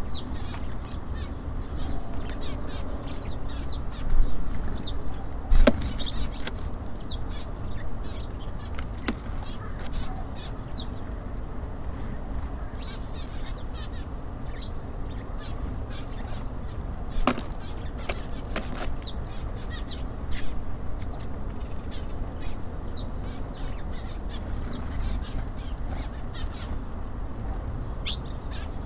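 Small birds at a bird feeder: many short, high chirps with wing flutters and a few sharp knocks, over a steady low background rumble.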